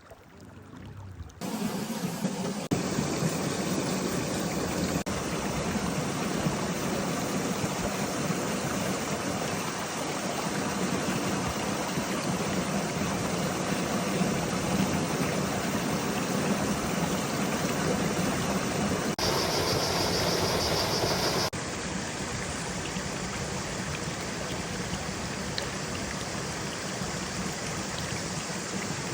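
A steady rushing noise, like running water, begins suddenly about a second and a half in. It turns briefly hissier for a couple of seconds about two-thirds of the way through.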